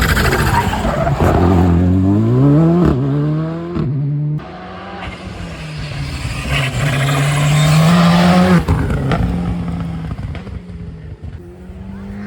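Turbocharged rally car engine accelerating hard, its revs climbing and breaking at a gear change about three seconds in. It lifts off sharply about four seconds in and again near nine seconds, with turbo flutter (compressor surge) on the lift-off.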